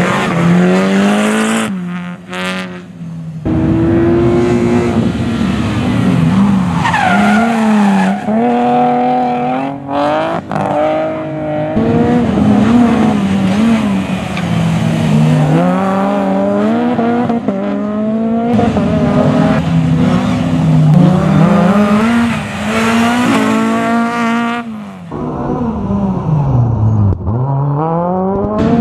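Rally car engine worked hard on track, its pitch climbing again and again as it accelerates through the gears and dropping on lifts and downshifts. The sound dips briefly about two seconds in and again near the end before picking back up.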